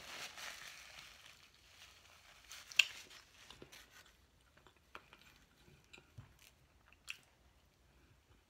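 Quiet close-up chewing of a mouthful of food, with scattered wet mouth clicks, the sharpest about three seconds in. A paper napkin brushes across the mouth at the start.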